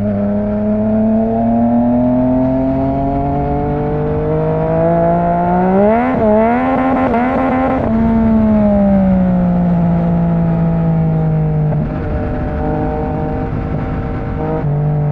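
Yamaha MT-09's inline-three engine through an Akrapovic exhaust under way: the engine note climbs gradually for about six seconds as the bike accelerates, wavers for a couple of seconds, then falls steadily as it eases off and settles lower near the end.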